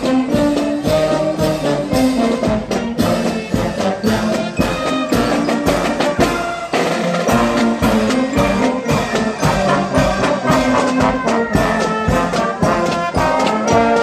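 A brass band playing a tune over a steady drum beat.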